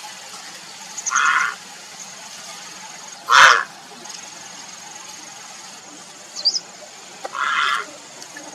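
Grey heron giving three short, harsh, rasping calls, about a second, three and a half and seven and a half seconds in; the middle one is the loudest.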